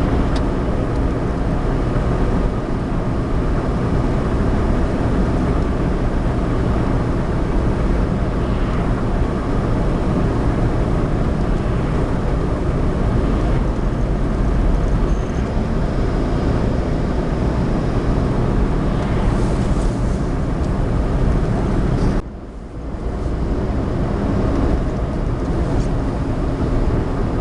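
Steady engine and tyre noise heard inside the cabin of a Suzuki Alto kei car driving on icy roads. About 22 seconds in it drops out for about half a second, then resumes.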